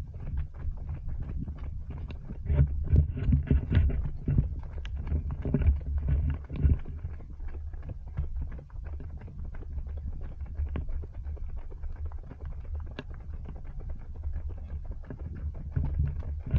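Running footsteps striking the ground in a steady rhythm, with a low wind rumble on a body-worn action camera's microphone.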